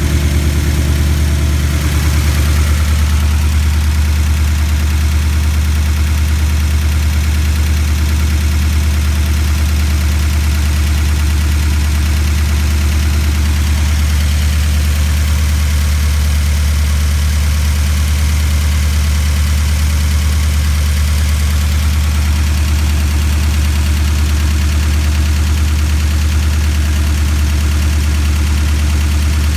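Ford flathead engine idling steadily, with a deep, even running note.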